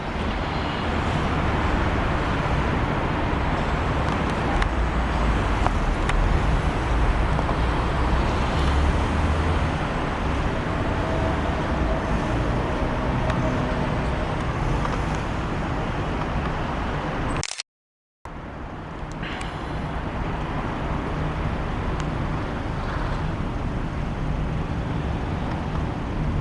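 Steady outdoor rumble like road traffic, with a low drone underneath; it drops out completely for about half a second around 18 s in, then resumes.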